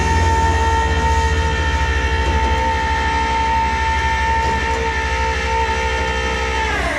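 Tow truck's hydraulic pump and winch running with the engine revved: a steady, loud whine over a fast low engine throb. Near the end the whine slides down in pitch and stops as the revs drop.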